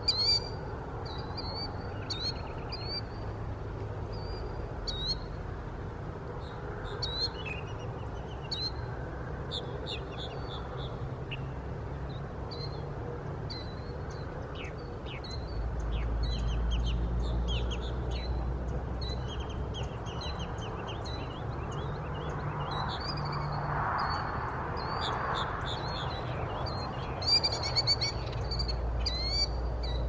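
Small birds chirping and singing: many short, high calls repeated throughout, with a denser run of calls near the end. A low rumble comes in about halfway through.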